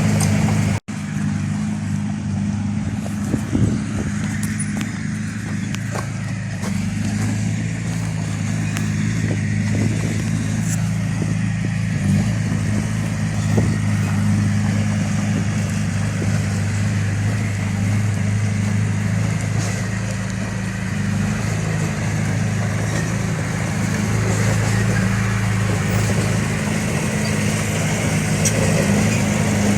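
Heavy diesel engine running steadily at a constant speed, with a few light knocks scattered through. The sound cuts out for an instant about a second in.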